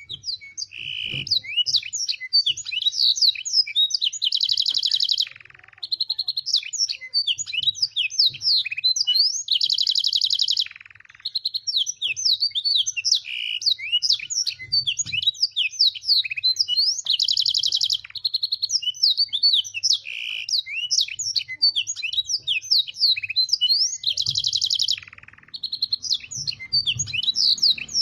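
Domestic canary singing a continuous, fast song of chirps and sweeping notes, broken about every six or seven seconds by a buzzy rolled trill. The bird is an 'isian' canary, schooled on black-throated canary and sanger song.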